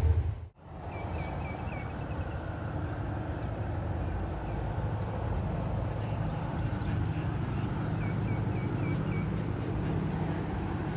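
A loud low train rumble cuts off about half a second in. After it comes a steady engine rumble, with a bird calling twice, each call a quick run of four or five short chirps.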